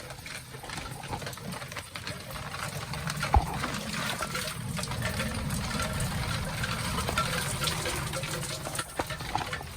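Heavy rain pouring down: a steady hiss of water with a low rumble beneath, and one sharp knock about three and a half seconds in.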